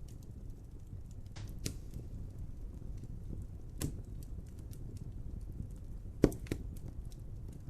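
Wood fire crackling in a fireplace: a low steady rumble of burning under scattered small crackles, with a few sharper pops, the loudest about six seconds in.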